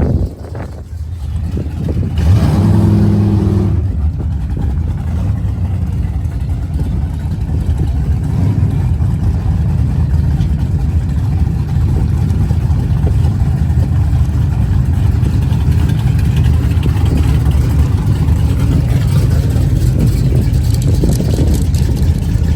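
Car engine running steadily, with a louder, pitched engine note about two to four seconds in.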